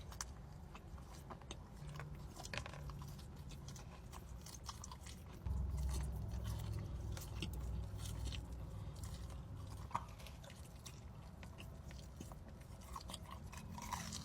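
A person chewing food close to the microphone, with soft mouth clicks and an occasional crunch. A low steady hum comes in about five seconds in.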